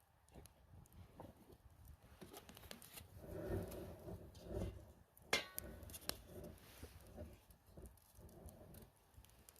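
Campfire wood crackling faintly, with scattered sharp pops and a few soft knocks; the loudest pop, with a brief ring, comes a little past halfway.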